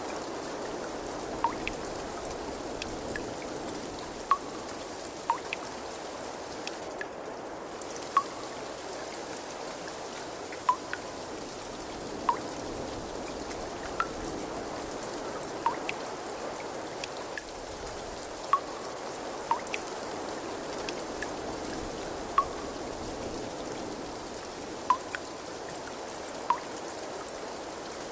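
Steady trickling water with single drops plinking into it every second or two at irregular intervals, about a dozen in all.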